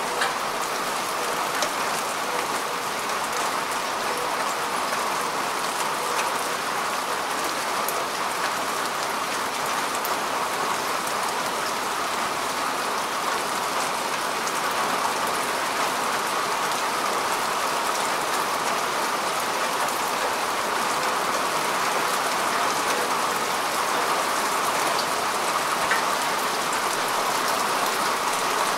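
Steady rain falling on earth and grass: an even hiss with many small drop ticks.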